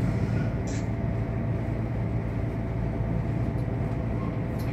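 Railcar running steadily along the track, heard from inside the cab: a constant low engine hum under the rumble of the wheels on the rails.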